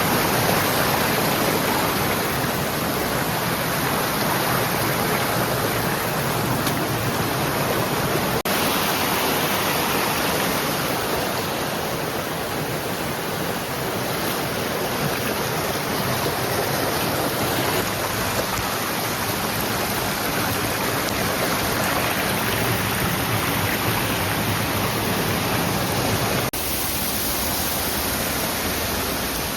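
Steady rush of flowing water in a mountain stream, with two abrupt cuts in the sound, about a third of the way in and near the end.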